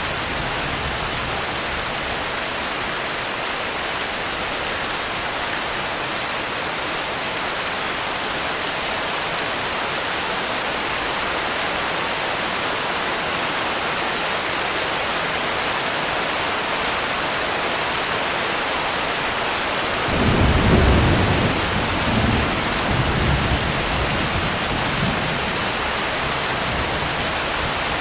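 Steady rain falling throughout, with a roll of thunder about two-thirds of the way in: a low rumble that swells, pulses a few times over several seconds and dies away.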